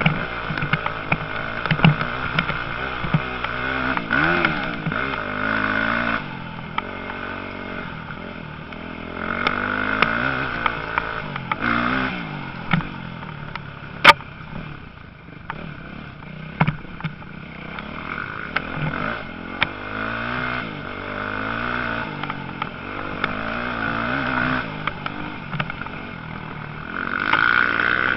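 Motocross motorcycles running, their engine pitch repeatedly rising and falling as riders open and close the throttle, the sound swelling and fading as bikes come and go. Many small clicks and clatter run through it, with one sharp crack about halfway.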